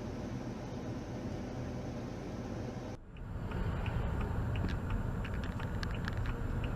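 Steady low rumble of a car's engine and road noise. About three seconds in it cuts off abruptly to a different steady rumble with scattered light ticks.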